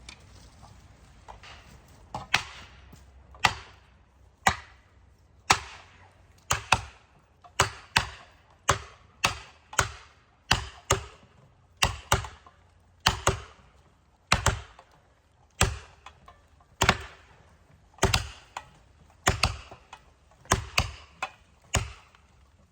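A tool striking wood hard again and again, roughly one blow a second, beginning about two seconds in. This is the pounding done while felling a tree that the wind is holding back.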